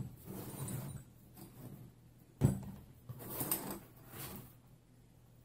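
Metal hand tools and regulator parts handled on a wooden tabletop: rubbing and shuffling, with a single sharp clunk of a wrench being set down about two and a half seconds in, then more shuffling before it goes quiet.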